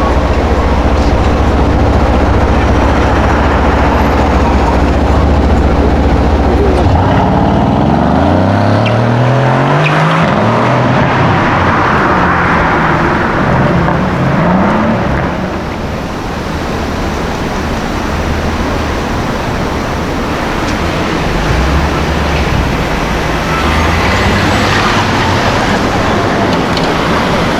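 A car engine idling with a steady low note, then about seven seconds in revving and pulling away, its pitch climbing in several rises before settling into steadier running.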